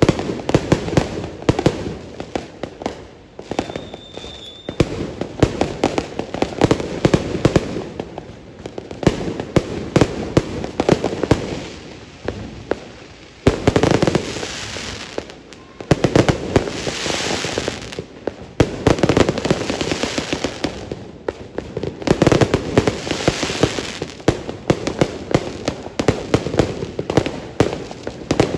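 Aerial fireworks going off in a dense barrage: a continuous crackle of rapid bangs and pops, swelling into louder fizzing bursts several times in the second half.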